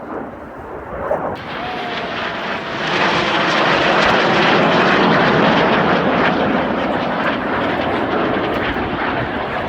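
An airplane's engines as it flies past: a loud rushing noise that builds over the first few seconds, holds at its loudest through the middle, and eases a little near the end.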